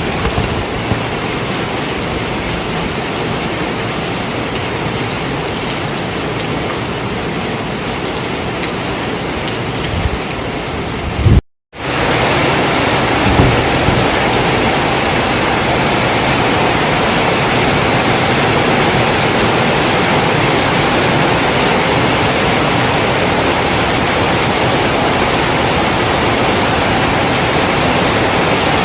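Heavy rain pouring down, a loud, steady hiss that breaks off for a moment about eleven seconds in and then resumes.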